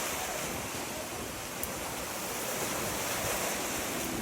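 Steady rushing of waves breaking on a beach.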